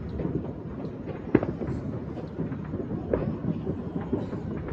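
Many distant fireworks and firecrackers going off at once: a continuous rumble of scattered pops and bangs, with one sharper, louder bang about a second and a half in.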